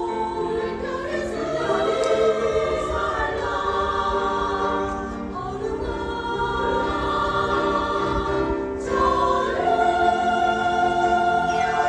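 Choir singing in harmony, ending on a long held chord near the end.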